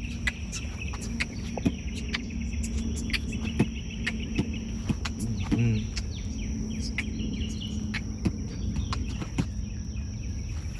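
Garden ambience: many short bird chirps over a steady high insect drone, with scattered sharp clicks and a low rumble underneath.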